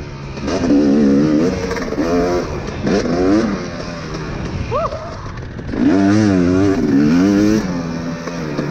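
Dirt bike engine revving up and down repeatedly as the throttle is opened and closed while riding a motocross track. It eases off for a stretch around the middle, then picks up again.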